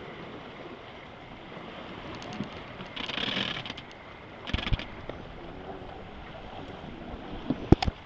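Water rushing along a sailboat's hull under way, with wind on the microphone. A brief louder swish comes about three seconds in, and a few sharp knocks sound near the middle and again near the end, the last the loudest.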